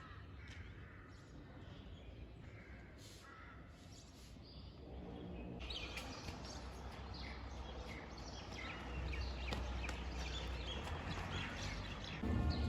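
Birds calling, with scattered short chirps and calls that grow busier about halfway through, over a low steady outdoor rumble.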